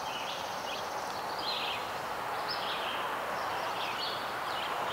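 Steady background hiss with a few faint, short bird chirps each second.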